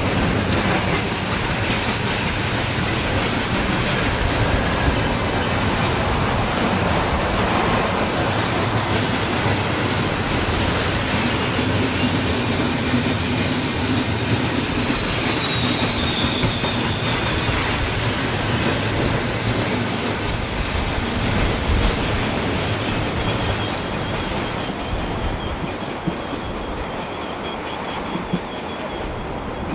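Railway train passing close by, its wagons rolling over the rails with a clickety-clack and a faint high wheel squeal about halfway through. The sound dies away over the last few seconds as the train moves off.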